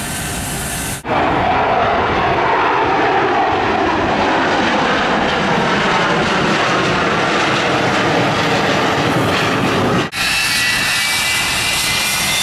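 Jet airliner engines running loud: a steady rush with a high whine over it, jumping abruptly to a different sound about a second in and again near the end.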